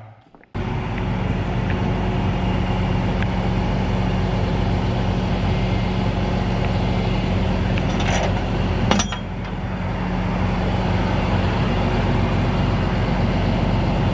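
Truck engine running steadily, starting abruptly about half a second in, with two sharp clicks about eight and nine seconds in.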